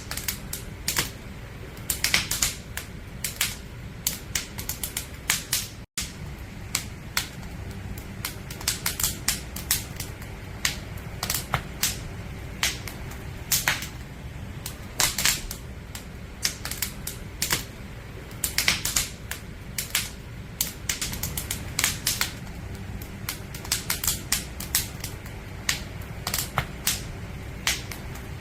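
Firewood burning in an open campfire, crackling with irregular sharp pops and snaps, several a second, over a steady low rumble of the flames. The sound cuts out for an instant about six seconds in.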